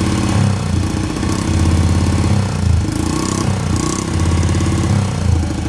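Honda XR50 pit bike's small four-stroke single-cylinder engine running and being revved up and down in short throttle blips. It runs rough and doesn't sound too good, as the bike has just come out of storage needing work.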